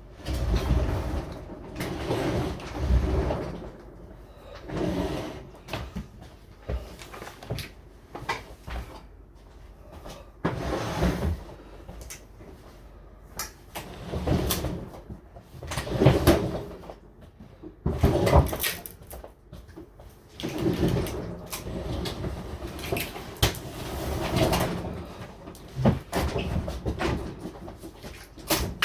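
A refrigerator being shoved and tipped by hand: irregular scraping, bumping and knocking.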